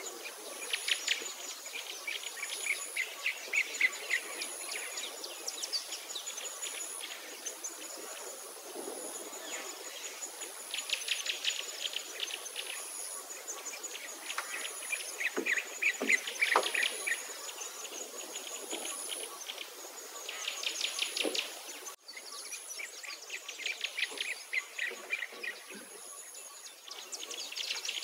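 Songbirds singing in repeated rapid trills every few seconds, over a faint high chirp that repeats about every second and a half.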